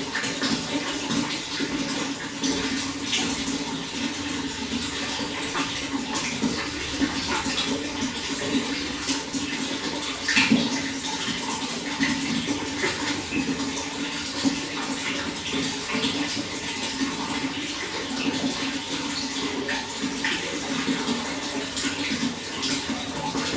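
Running water, a steady rush with many small irregular splashes and a brief louder splash about ten seconds in.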